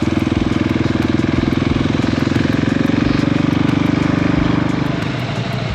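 Motorcycle engine running at a steady pitch with an even, rapid pulsing, easing off slightly near the end.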